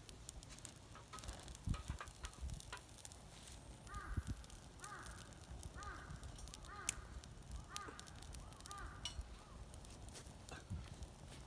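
A crow cawing about six times, roughly once a second, over faint scattered clicks and knocks.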